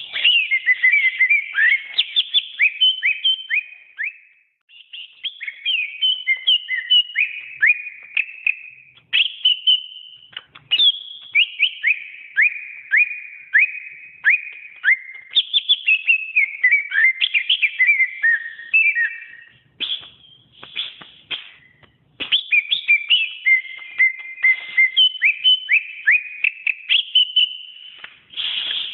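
Green leafbird (cucak ijo) singing: long phrases of rapid, clear whistled notes, many sweeping downward in pitch, broken by a few short pauses.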